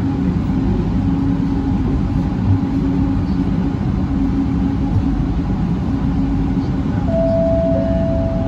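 Bombardier Innovia ART 200 driverless metro train running, heard from inside the car: a steady low rumble with a constant hum. About seven seconds in, a clear steady tone comes in, joined a second later by a slightly lower one.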